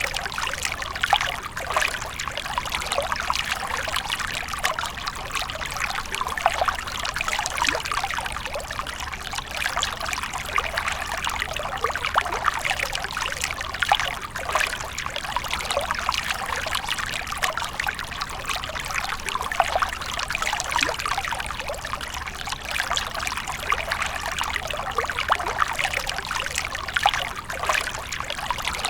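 Water fountain splashing and trickling steadily, a dense patter of falling water with no break.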